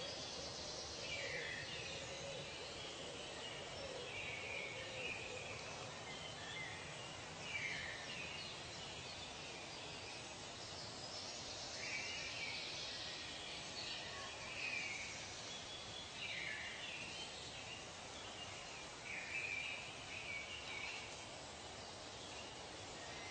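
Tropical forest ambience: birds give short falling calls every couple of seconds over a steady background hiss.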